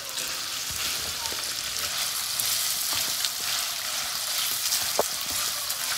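Chicken strips sizzling in a hot wok as the moisture they released cooks off, with a wooden spatula scraping and stirring them. There is a brief sharp tap about five seconds in.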